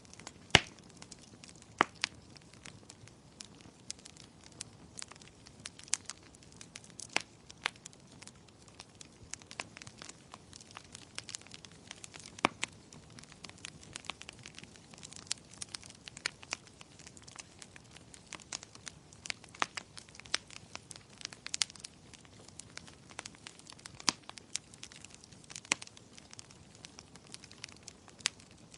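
Wood fire crackling in a fireplace: irregular sharp pops and snaps over a soft hiss, with a few louder pops, the loudest about half a second in.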